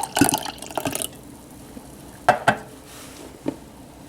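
A can of Mr. Brown Blue Mountain Blend coffee being shaken, the liquid sloshing rapidly inside, stops about a second in. A few sharp clicks follow, two close together and then one more.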